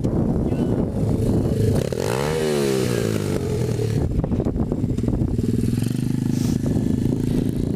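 SSR125TR 125cc single-cylinder four-stroke pit bike engine running, its pitch dropping and then rising again about two seconds in.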